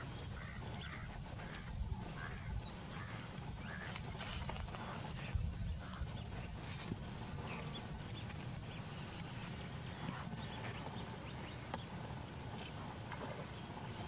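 Scattered short bird calls over a steady low rumble.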